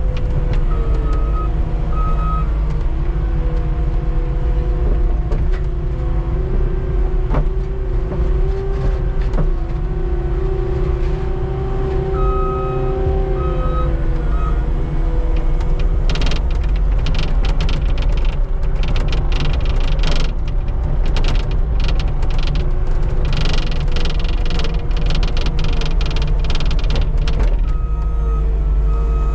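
Skid steer's diesel engine running under load, its pitch rising for several seconds and dropping again, with the reverse alarm beeping in pairs three times. From about halfway the steel bucket edge scrapes and clatters over the pavement as it scrapes down the snow.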